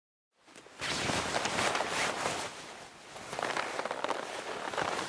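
Rustling, crackling noise in two long swells of about two seconds each, full of small ticks.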